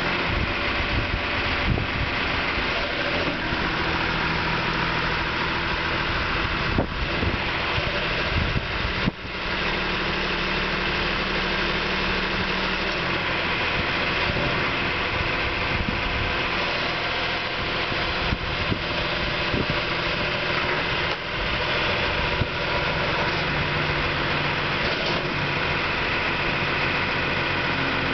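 Heavy-equipment diesel engine idling steadily just after being started, with a couple of short knocks about seven and nine seconds in.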